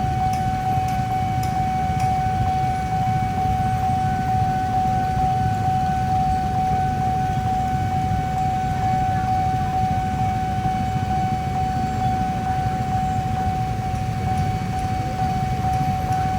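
Kyosan railway level-crossing warning alarm sounding one continuous, steady high tone, over a low rumble.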